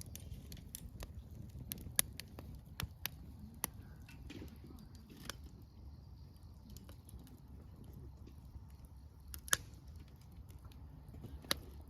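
Wood campfire crackling: irregular sharp pops and snaps over a low steady rumble, the loudest pops about two seconds in and near the ten-second mark.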